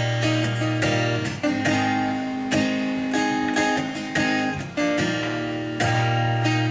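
Acoustic guitar strumming chords in a steady rhythm, an instrumental passage between verses of a country ballad with no singing.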